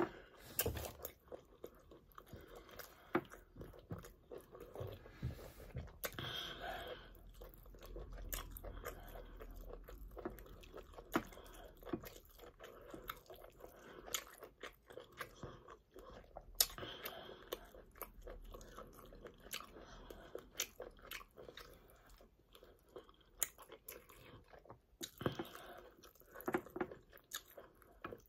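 Close-miked chewing of pounded yam and spinach sauce eaten by hand, with many small wet mouth clicks and smacks.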